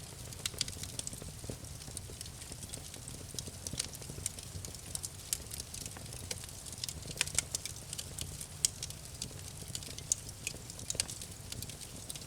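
Campfire burning, wood crackling and popping in irregular sharp snaps over a low steady rumble of the flames.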